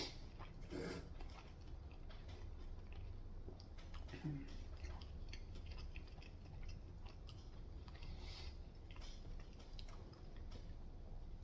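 Close-up chewing of fried chicken: quiet mouth sounds with small crunches and wet clicks.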